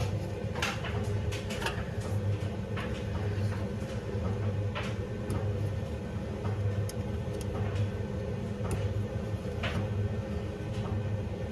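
Scattered light clicks and knocks of hand work on a washing machine motor, over a steady low hum.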